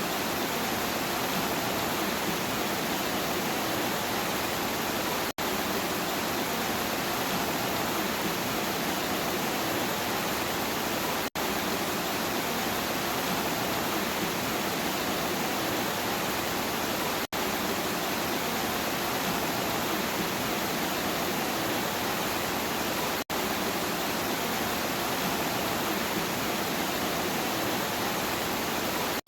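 Steady rain, an even hiss with no separate drops standing out, that cuts out for an instant about every six seconds.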